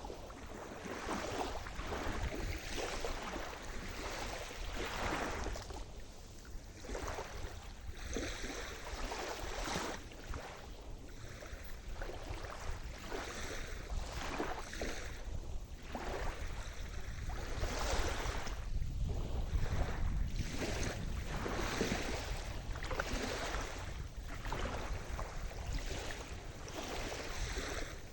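Sea surf washing onto a shore: waves breaking and sloshing in an irregular series of swells, over a steady low rumble.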